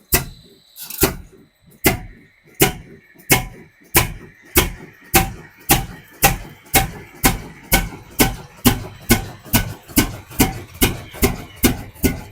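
Old diesel engine firing on a cold start: heavy, evenly spaced knocking beats that begin suddenly and steadily speed up, from about one a second to over two a second, as the engine catches and picks up speed.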